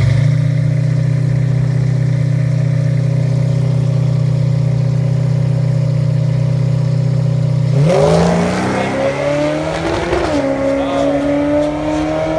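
Drag car engine held at steady revs on the start line, then launching about eight seconds in: the revs climb hard and drop back at an upshift a couple of seconds later, then climb again.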